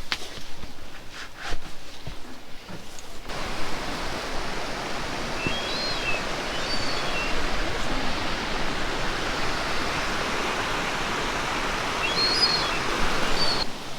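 Steady rushing hiss of falling or running water in wet bush, starting about three seconds in after a few faint knocks, with brief high bird chirps twice over it.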